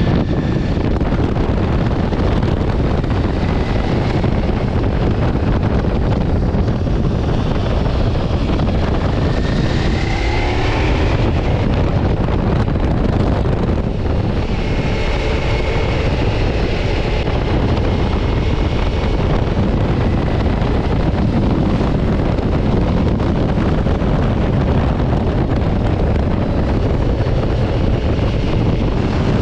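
Ducati Multistrada V4 S motorcycle riding at speed, its V4 engine running under a steady rush of wind on the microphone; the engine note dips and climbs again about ten seconds in.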